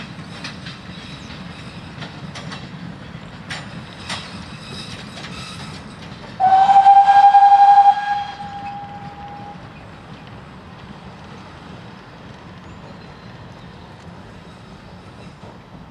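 Goods wagons and a brake van rolling past, wheels clicking irregularly over the rail joints. About six seconds in, one locomotive whistle blast at a steady pitch, the loudest sound here, lasts about a second and a half and then trails off. After it the train's rumble fades.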